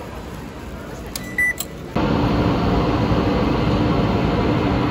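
A ticket gate card reader gives one short beep, with a click or two, as a transit card is tapped about a second and a half in. Then, from two seconds, a Taiwan Railway commuter train standing at the platform with its doors open gives a loud, steady hum.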